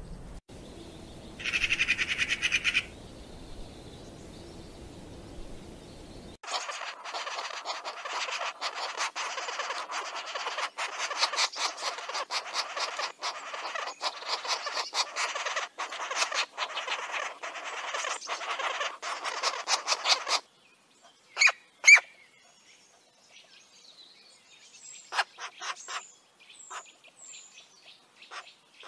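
Birds calling. For about six seconds there is only a low background rumble with a brief higher sound about two seconds in. Then comes a fast, dense chattering of chirps that stops abruptly, followed by two loud sharp calls and a few scattered chirps and short falling whistles.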